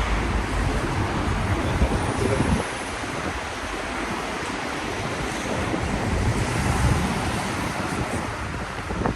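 Wet city street in the rain: a steady hiss of rain and tyres on wet road, with a low traffic rumble that fades out a couple of seconds in.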